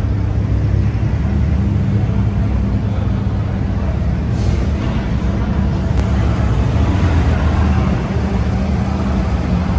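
Car engines idling: a steady low rumble.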